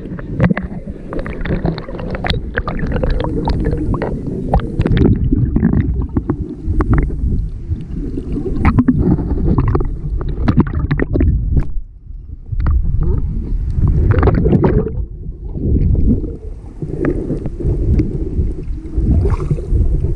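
Gusty wind rumbling on the microphone, with repeated splashes of water against the boat; the rumble eases for a moment about twelve seconds in.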